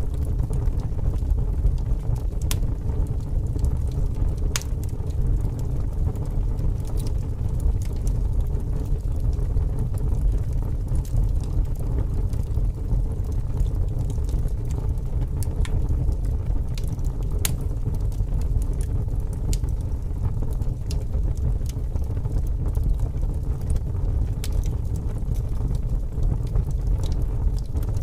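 Wood fire burning, with sharp crackles and pops at irregular intervals over a steady low rumble of strong wind.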